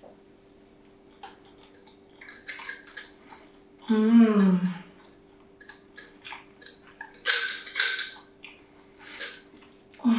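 Someone eating a homemade blackberry popsicle: a series of short bites and mouth noises, with a brief falling "mmm" about four seconds in, over a steady low hum.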